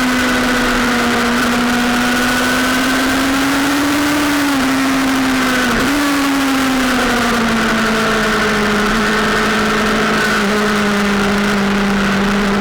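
Sportbike engine running hard at high revs on the track, one steady note that briefly dips twice near the middle and then settles a little lower, over a heavy even rush of wind noise.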